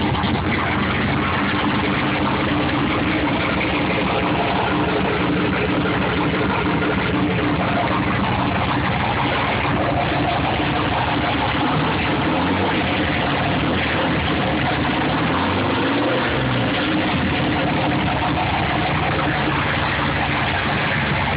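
Ford Thunderbird Super Coupe's supercharged 3.8-litre V6 idling steadily, its pitch wavering up and down for a few seconds just past the middle.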